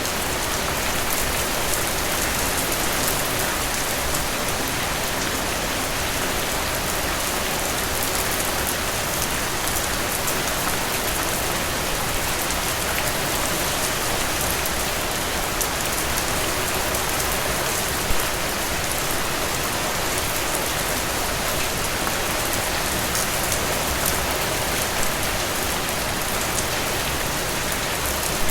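Steady rain falling, an even hiss with a few sharper drops standing out now and then.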